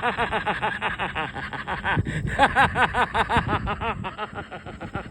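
Several ducks calling in fast, continuous runs of short quacks that overlap at different pitches.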